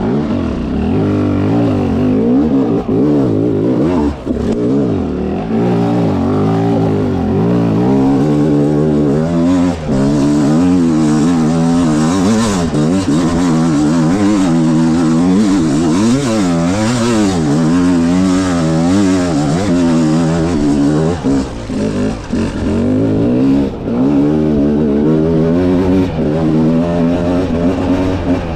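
300cc two-stroke dirt bike engine under hard riding, the revs rising and falling over and over as the throttle is worked, with a few brief throttle chops.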